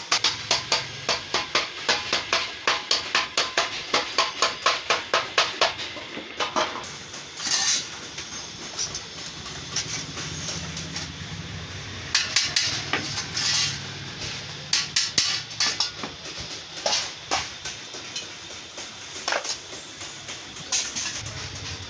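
Hammer blows on sheet metal: a fast, even run of about four strikes a second for the first six seconds, then scattered single strikes and short clusters.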